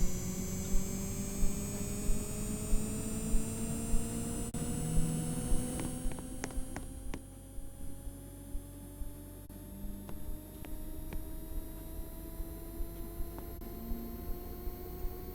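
Washing machine motor speeding up into a spin, its whine rising steadily in pitch, with a regular knock or swish on each turn of the drum that comes faster as it speeds up.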